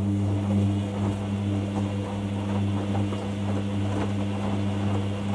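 Hoover washer dryer's drum motor turning the drum during a 90°C cottons wash, a steady low hum with the load swishing and faint ticks.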